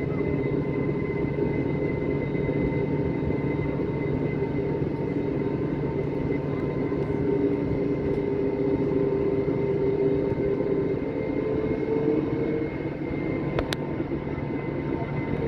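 Airbus A320 jet engines running steadily, heard from inside the passenger cabin as an even hum with faint steady tones, with one sharp click near the end.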